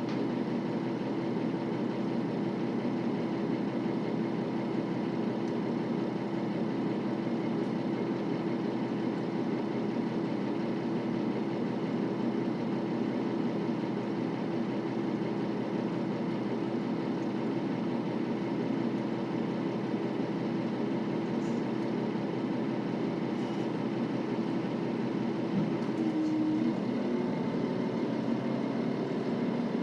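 KiHa 40 series 2000 subseries diesel railcar's engine running steadily. Near the end its note rises briefly and then settles at a lower pitch.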